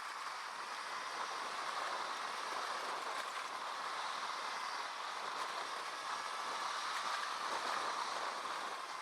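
Honda Pioneer 700-4 side-by-side driving along a dirt trail: steady engine and tyre noise with no distinct events.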